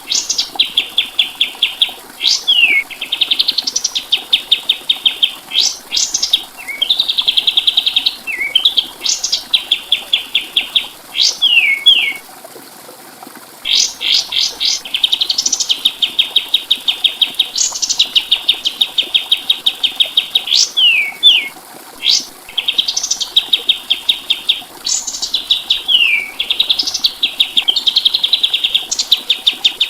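Kapas tembak songbird singing: phrases of fast, rattling repeated notes mixed with quick upward and downward whistled slurs, with one short pause about twelve seconds in.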